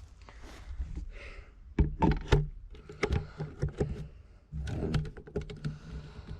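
Camera and its stand being handled and set down: a string of sharp knocks and clicks, loudest about two seconds in, with a denser patch of handling clatter near five seconds.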